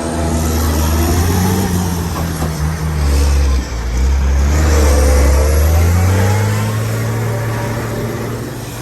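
Diesel engine of an International 7600 truck carrying a volumetric concrete mixer, running under acceleration: the engine pitch climbs, drops briefly about three and a half seconds in, climbs again, then holds and eases off near the end.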